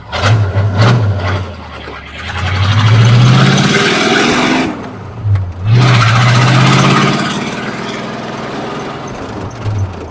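Ford Model A roadster's flathead V8 accelerating under way. The engine note rises, drops at a gear change about five seconds in, rises again, then settles into a steady cruise.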